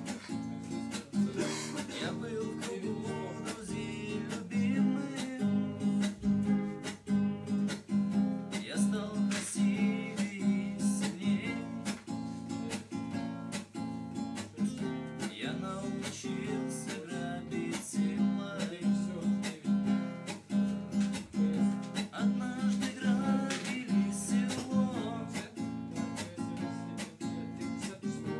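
Acoustic guitar strummed in a steady, even rhythm, playing the chord accompaniment of a minor-key song.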